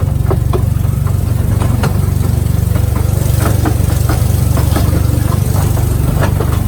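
Small scenic mountain train running, a loud steady low rumble with scattered clicks and rattles on top.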